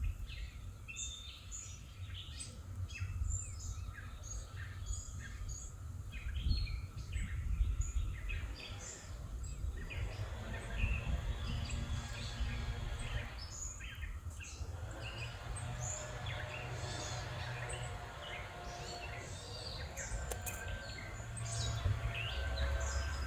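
Songbirds chirping, many short calls one after another, over a steady low rumble. About halfway through, a fainter, steady pitched sound joins in.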